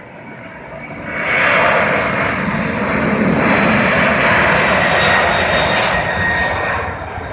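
Boeing 767-300ER's twin turbofan engines at takeoff thrust: a loud roar that swells sharply about a second in and holds steady with a thin high whine, easing off a little near the end.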